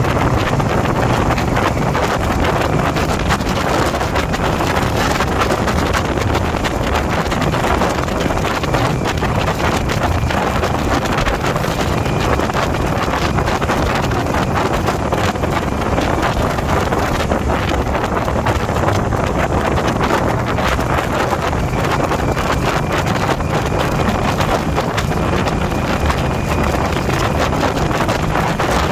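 Motorcycle riding at steady speed: a constant engine drone under heavy wind rush on the microphone.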